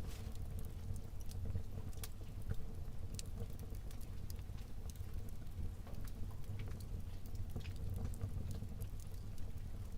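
Fire burning in a fireplace, crackling: irregular sharp pops and snaps scattered over a steady low rumble.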